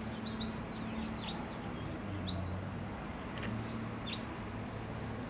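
Small birds chirping in the background: a quick string of short, high chirps in the first couple of seconds, then a few scattered ones, over a low steady hum.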